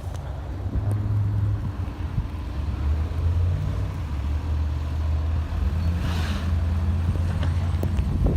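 Motor vehicle engine running with a low, steady drone that drops slightly in pitch about three seconds in, with a brief hiss about six seconds in.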